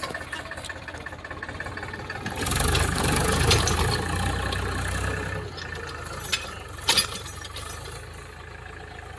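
Tractor engine running, getting louder about two and a half seconds in for a few seconds and then easing back to a steady run. Two short sharp knocks come shortly after.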